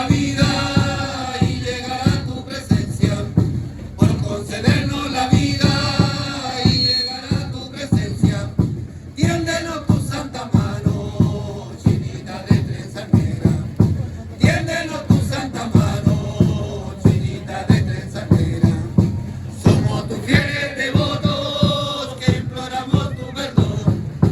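Religious dance troupe singing a saludo, a song of greeting to the Virgin, in chanted phrases with gaps between them, over a steady drumbeat of about two beats a second.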